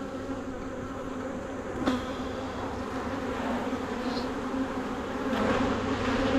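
Honeybees buzzing in a steady, dense hum around an opened hive, the sound of a defensive colony. A single sharp click about two seconds in.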